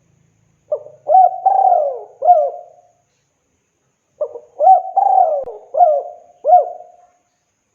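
Spotted dove (tekukur) cooing: two phrases of four or five notes each, about three seconds apart.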